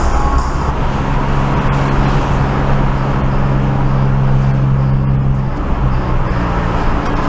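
A car driving on a wet road: steady tyre and road-spray noise, with an engine drone that holds one pitch from about a second in and fades near the end.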